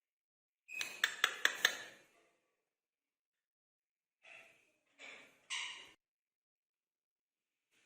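Indian ringneck parrots vocalizing: a short raspy burst with several sharp clicks about a second in, then three short calls in quick succession a few seconds later.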